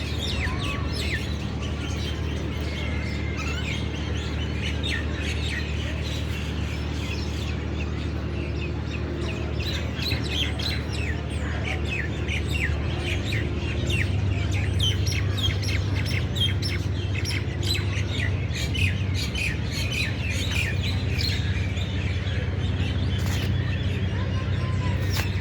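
Many small birds chirping in dense, overlapping short calls, over a steady low hum.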